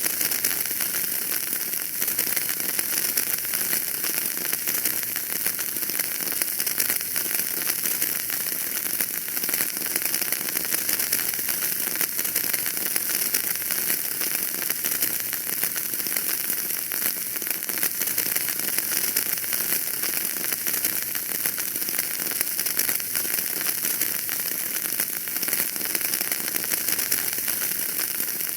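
Wood fire burning in a fireplace with steady, dense crackling and faint hissing, many small pops throughout.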